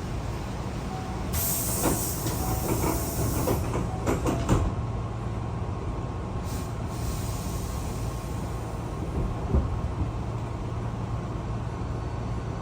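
Hankyu commuter train pulling out of a station, heard from inside: a burst of compressed-air hiss with several clunks in the first few seconds, then a steady low running hum as it gets under way.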